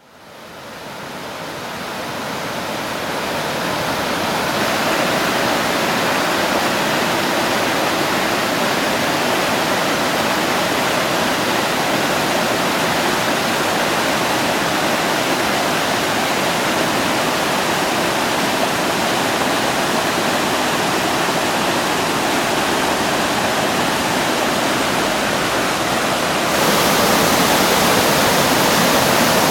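Rain-swollen mountain river rushing as whitewater, a steady dense sound of water. It fades in over the first few seconds and turns slightly louder and brighter about 26 seconds in.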